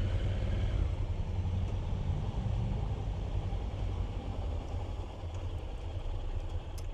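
Motorcycle engine running at low speed, getting a little quieter toward the end.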